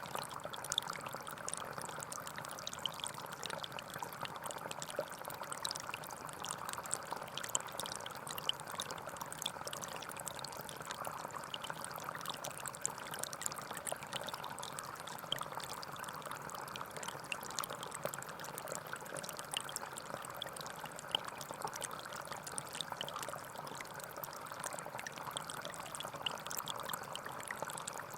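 Gentle forest stream flowing and babbling steadily, with many small splashes and trickles.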